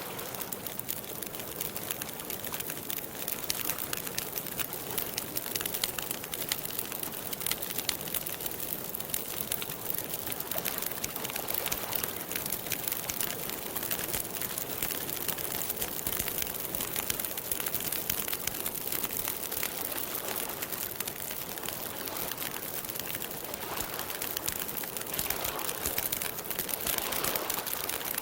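Campfire crackling steadily with many small, quick pops, against an outdoor backdrop where birds call faintly.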